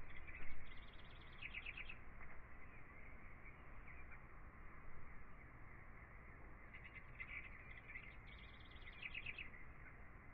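Birdsong: a phrase of rapid repeated chirps in the first two seconds and another about seven seconds in, over a steady low hiss.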